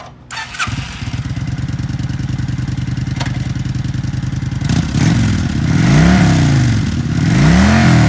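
2007 Kawasaki Vulcan 900 Custom's liquid-cooled, fuel-injected V-twin being started: a brief crank on the starter, then the engine catches and idles steadily. In the second half it is revved twice, each rev rising and falling.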